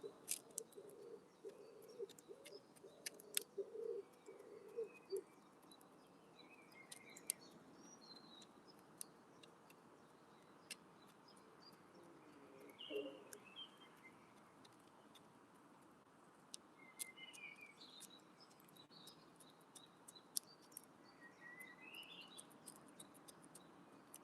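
Wood pigeon cooing low and rhythmically for the first five seconds, with one short coo again about halfway. Sharp clicks from pecking at the window feeder are scattered throughout, and small birds chirp faintly and high-pitched in the background.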